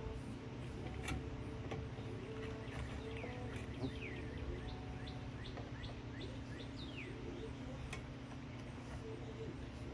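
Small birds calling over and over with short, falling chirps, over a steady low background hum. A few light clicks come through, about a second in, near four seconds and near eight seconds.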